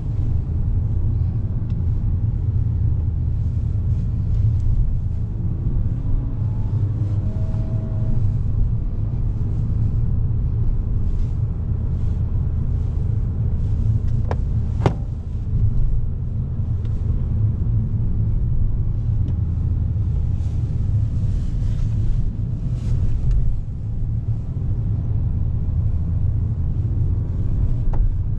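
2011 Volkswagen Golf VI 1.4 TSI with DSG gearbox driving: a steady low rumble of engine and road noise, with a sharp click about halfway through.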